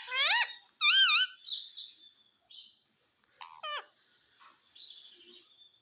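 Indian ringneck parrot whistling and calling: a quick rising whistle, then a wavering warbled whistle about a second in, a short falling call near the middle, and soft chatter in between.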